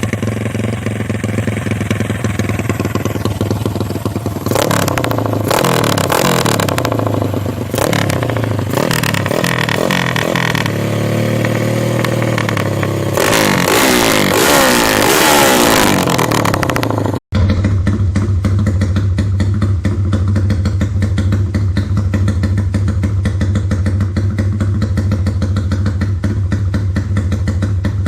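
Small motorcycle engine running through a Thai 'Nu Lam Luk Ka'-formula tuned exhaust, revved up and down repeatedly. After a sudden cut partway through it settles into a steady low idle.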